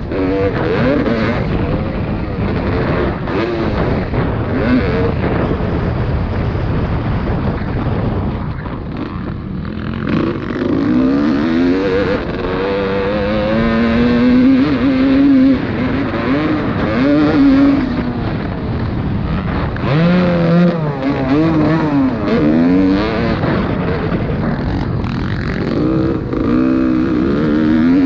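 Motocross motorcycles racing, their engines revving up and dropping back again and again as they accelerate and shift through the gears.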